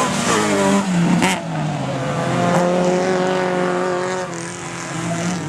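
Autocross race car engines running hard, pitch dropping in the first second, holding steady and then dipping and climbing again near the end as the cars shift and accelerate around the dirt track.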